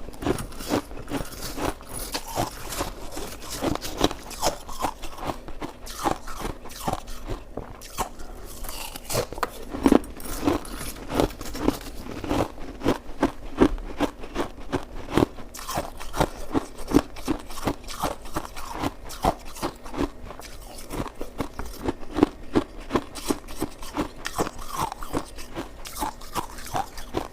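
Close-up crunching and chewing of shaved ice: a continuous run of crisp crunches in quick succession, several each second.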